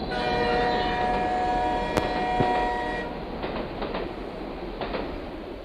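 Train horn sounding a steady chord for about three seconds, then the train running on.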